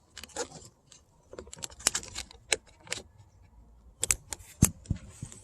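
Irregular small plastic clicks and rattles as a tweeter's wiring connector is pushed down and wiggled loose by hand, with a louder cluster of clicks about four seconds in.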